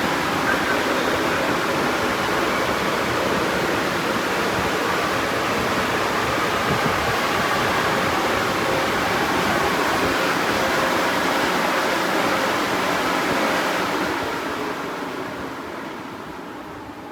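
Touch-free car wash dryer blowers running with a steady rush of air, then winding down over the last few seconds as the drying stage ends.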